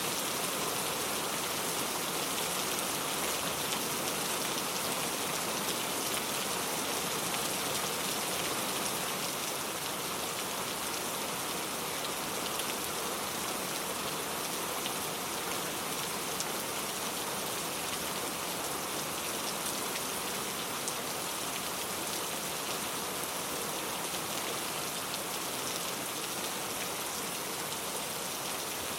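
Steady rain falling, an even hiss of many drops with faint scattered ticks of individual drops.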